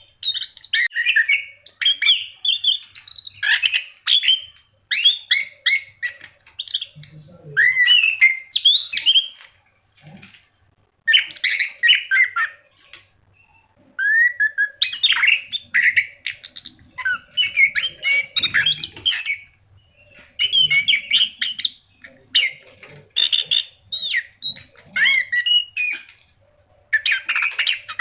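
Orange-headed thrush (anis kembang) singing gacor, in full song: a fast, varied run of warbled, sliding and chattering phrases. It pauses briefly about twelve seconds in and again just before the end.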